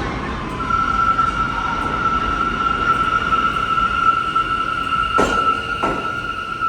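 R179 subway train running on the rails, with a steady high-pitched squeal that sets in about half a second in and holds. Two sharp clunks come a little after five seconds in.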